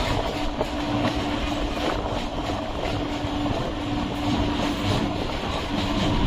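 Electric multiple-unit suburban train running along the track: a steady hum under continuous wheel-on-rail noise, with a few faint knocks.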